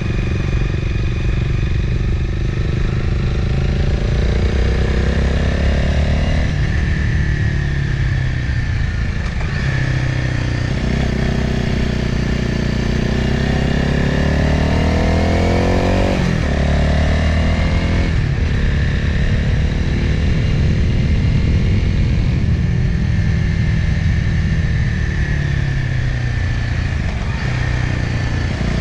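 Motorcycle engine heard from the bike itself on a downhill mountain road. The revs climb steadily and then drop off suddenly several times as the rider shifts gears or rolls off the throttle.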